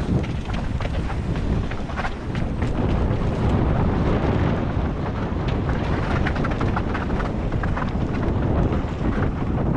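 Wind buffeting a mountain biker's action-camera microphone on a fast downhill run. Rapid knocks and rattles from the bike going over rough, rocky trail run through it.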